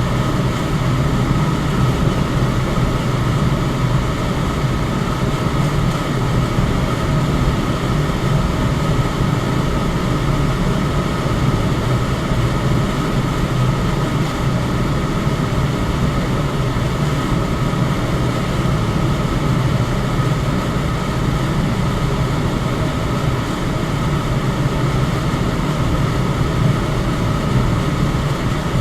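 Electric fan running steadily: a constant rush of air over a low hum, with a faint steady higher tone.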